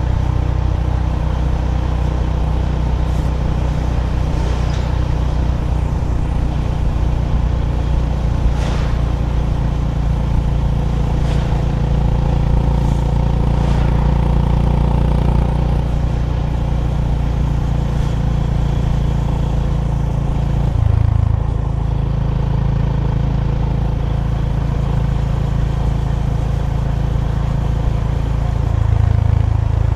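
Honda GB350's air-cooled single-cylinder engine running steadily under way. Its note changes about halfway through and again about two-thirds of the way in, and rises slightly near the end.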